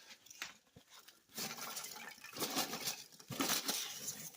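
Hands rummaging through packing peanuts in a cardboard box: a rustling, shuffling noise that starts about a second in and comes in a few surges.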